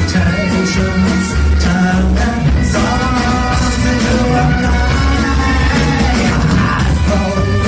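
Live band playing a rock-style rag with a steady beat, with a voice singing over it in the middle.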